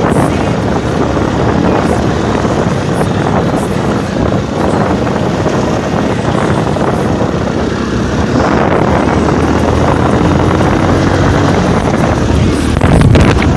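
Motorcycle engine running while riding, mixed with wind rushing over the microphone. The sound gets a little louder about eight seconds in.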